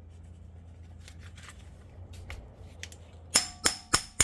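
A hammer strikes a hand impact driver fitted with a T30 Torx bit to break loose a brake rotor retaining screw. After a few faint clicks, sharp metallic clanks start about three seconds in, about four a second, each one ringing.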